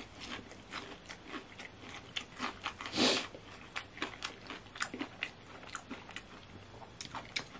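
A person biting and chewing food, close to the microphone: a quick, uneven series of small crunchy clicks, with one louder crunch about three seconds in.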